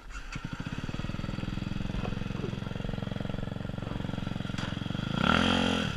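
Motorcycle engine idling with a rapid, even pulse, coming in just after the start. There is a short rev about five seconds in, where it gets louder and its pitch rises and falls.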